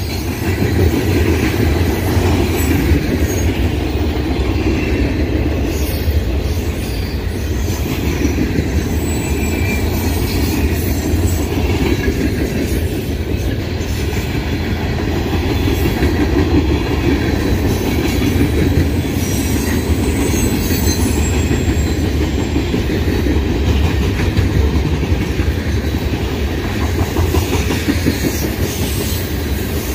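Manifest freight train's cars rolling past at close range: a steady, loud noise of steel wheels on the rails, with scattered clicks as the wheels cross rail joints.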